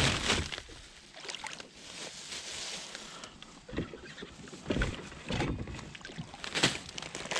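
Fast creek water rushing and splashing around a fishing kayak, with several sharp knocks and splashes on the hull; the loudest comes near the end.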